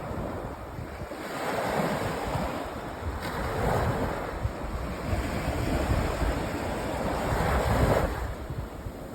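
Sea waves breaking and washing up a sandy beach, the surf hiss swelling about a second in, cresting several times and easing off near the end. Wind buffets the microphone with a low rumble throughout.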